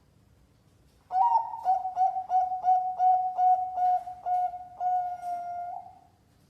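Zebra dove (perkutut) cooing its competition-style song: about ten quick, evenly spaced notes ending in one longer held note.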